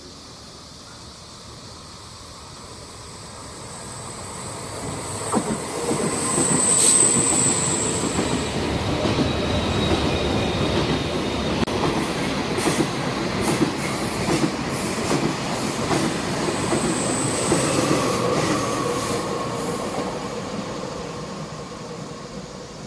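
KTX high-speed train passing on a curve. The rolling noise of its wheels and cars builds from about four seconds in, with high wheel squeal, stays loud for most of the pass, then fades as it runs away.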